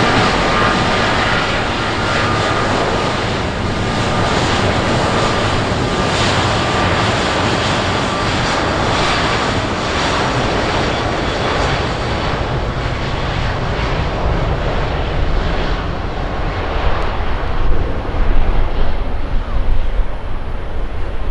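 Airplane engine noise from a passing aircraft: a loud steady rush with a high whine that fades away about halfway through. Near the end, wind buffets the microphone in irregular gusts.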